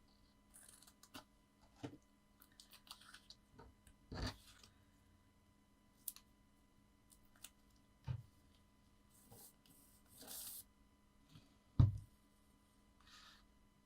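Paper craft pieces being handled on a tabletop: scattered light rustles and clicks, with soft knocks about four, eight and twelve seconds in, the one near twelve seconds the loudest.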